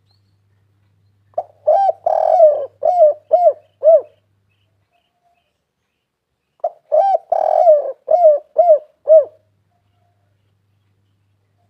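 Spotted dove cooing in two phrases, each a quick run of about seven short, arched coos with a longer, rougher coo near its start. The first phrase comes about a second in, the second about six and a half seconds in.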